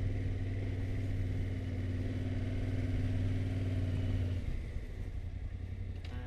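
Yamaha Ténéré 700's parallel-twin engine running at a steady pace while riding, then easing off about four seconds in.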